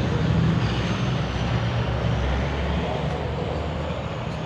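A large engine idling, a steady low rumble that eases a little about two and a half seconds in, over general outdoor background noise.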